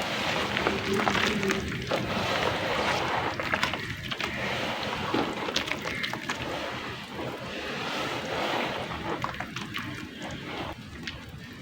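Soft, dusty clay crumbling into water and being worked into a wet paste: squelching and sloshing, with many small crackles.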